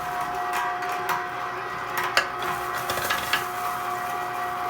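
Vevor electric meat grinder's motor running on with a steady hum after a whole chicken, bones included, has been ground through it. A few sharp clicks and knocks sound over the hum, the loudest about two seconds in.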